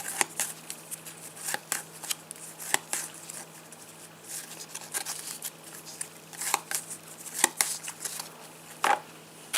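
Topps Match Attax trading cards being handled and flicked through, giving a string of irregular light clicks and card-on-card snaps.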